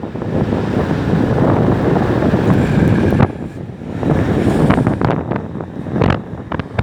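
Storm-force wind buffeting the microphone in gusts over rough surf. The wind eases briefly about three seconds in, then picks up again.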